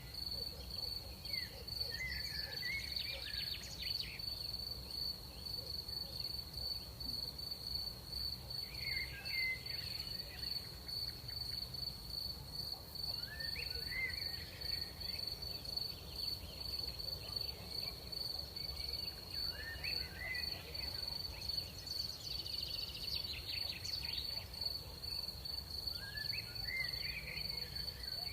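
Crickets trilling at night: one steady, unbroken high-pitched trill. Short chirping calls, lower in pitch, come and go every few seconds over a low background rumble.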